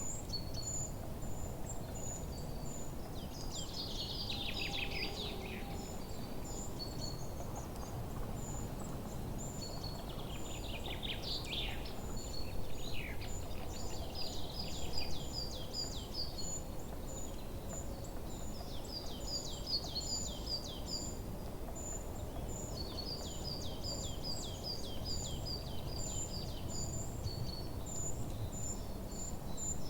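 Forest dawn chorus of several birds: high short chirps repeat throughout, with falling song phrases about four and eleven seconds in and fast runs of rapid notes later on, over a steady low background rumble.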